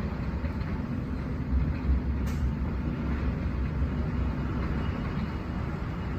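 Hurricane-force wind buffeting the microphone: a steady low rumble with a hiss above it.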